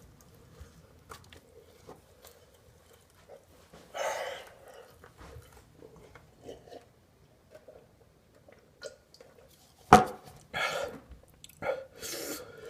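A man chewing and working a large mouthful of food, with small wet mouth clicks throughout. About ten seconds in there is a sharp click followed by several louder noisy bursts.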